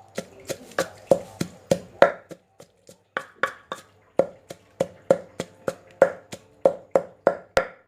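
Pestle pounding ingredients in a mortar for som tam: steady strikes about three a second, each with a short ringing knock. The strokes are lighter for about a second, roughly two seconds in.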